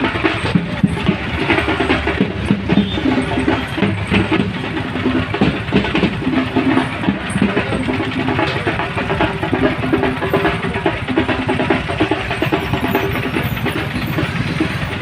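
A vehicle engine running, mixed with a dense, continuous noise.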